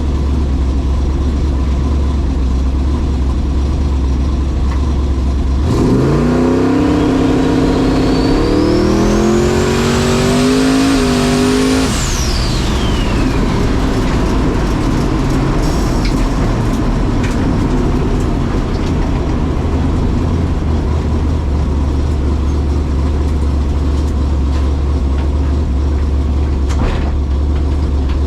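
A race car's engine revs up hard and climbs through several gear changes, accelerating away from about six seconds in. A high whine rises with it and then drops off quickly after about twelve seconds. A steady low rumble runs underneath.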